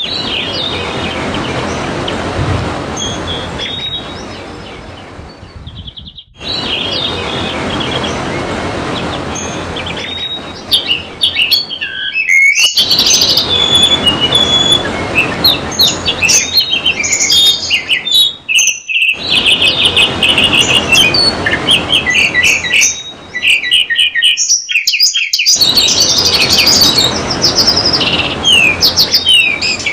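Trickling water with white-eye (pleci) birdsong over it: quick high chirps and twittering trills, scattered at first and dense and loud from about a third of the way in. The water noise drops out for a moment roughly every six seconds, where the recording is looped.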